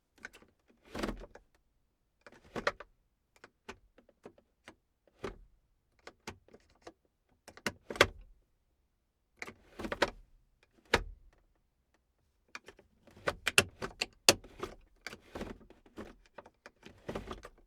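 A run of short knocks, clicks and handling noises with brief pauses between them, coming thicker and faster near the end.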